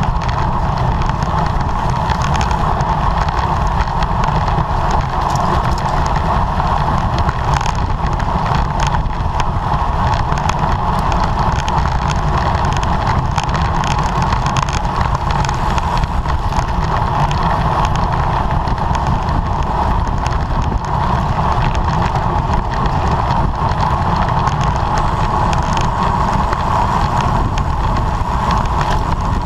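Steady wind noise on the microphone of a road bicycle riding at race speed: a constant low rumble with no letup.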